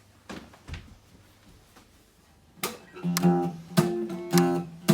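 Acoustic guitar starting to strum chords in a steady rhythm about two and a half seconds in, after a couple of faint knocks.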